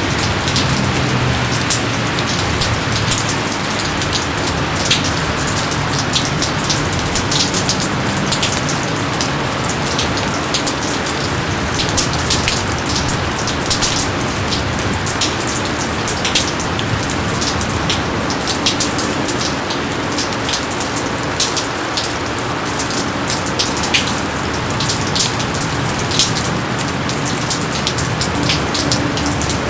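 Steady heavy rainfall, a constant hiss of falling rain with many sharp individual drop splats close by.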